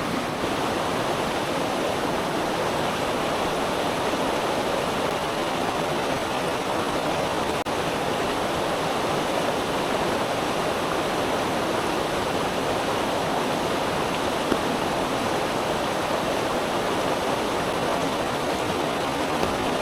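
Rushing river water, a steady, even rush with no break.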